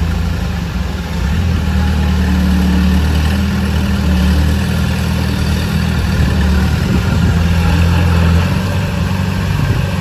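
Heavy diesel engine of earthmoving machinery running steadily at a low pitch, with small shifts in engine speed now and then.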